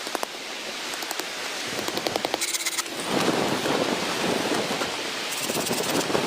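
Heavy rain falling steadily, with many sharp ticks of individual drops striking a surface. It gets louder about three seconds in.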